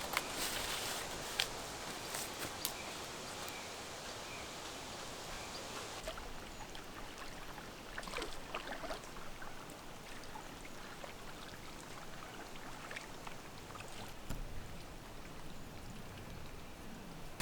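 Faint, steady outdoor ambience, a soft hiss of wind or water, with a few small knocks and rustles scattered through it.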